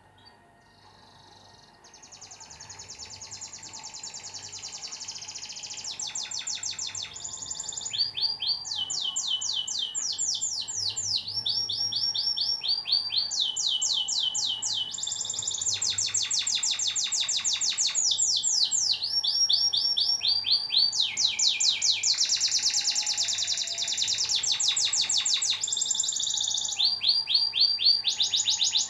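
Canary song: fast, evenly repeated trilled rolls and chattering phrases, one phrase giving way to the next every second or two. It starts about two seconds in and grows louder.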